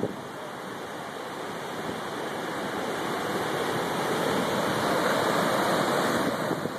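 Floodwater rushing under a bridge, a stream swollen by hurricane rain: a steady rush of water that grows louder about halfway through.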